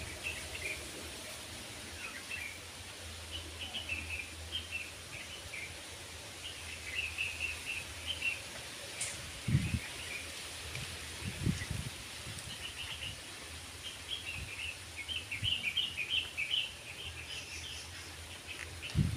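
Small birds chirping: many short, high chirps in quick clusters, over a steady outdoor hiss, with a few brief low thumps on the microphone.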